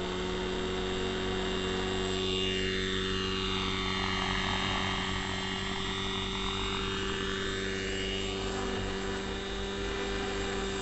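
Neo Caliber 50 RC helicopter's two-stroke glow engine and rotors running at a steady, high head speed in flight. A hiss over the steady hum sweeps down in pitch and back up over several seconds.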